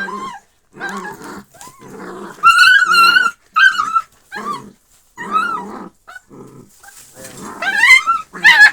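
Canines fighting: harsh snarling growls broken by high-pitched yelps and whines, in repeated short outbursts.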